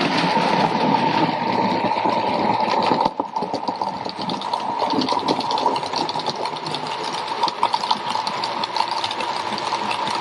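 00 gauge model locomotive running along the track: a steady whine from its small electric motor with rapid clicking of wheels over rail joints. The sound cuts abruptly about three seconds in and carries on in much the same way.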